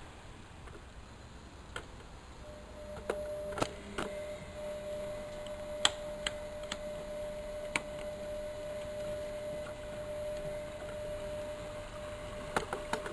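Miele Novotronic washing machine running: a series of sharp clicks, with a steady hum that sets in about two and a half seconds in.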